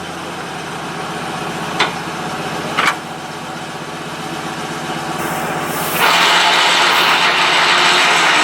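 A large military truck's engine running steadily at idle, with two sharp clicks about two and three seconds in. About six seconds in, a much louder rushing noise sets in and holds.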